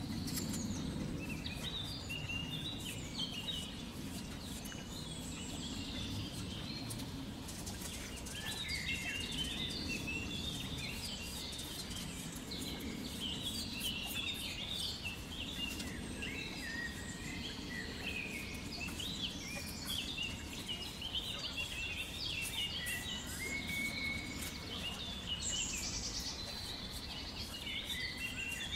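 Small birds chirping: a dense run of short, high chirps over a steady low background noise.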